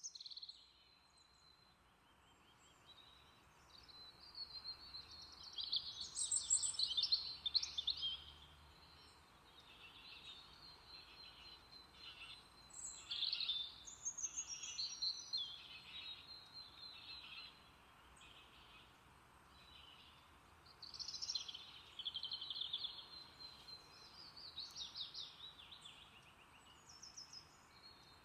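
Songbirds singing and chirping in several high-pitched bouts a few seconds long, over a faint steady background hiss.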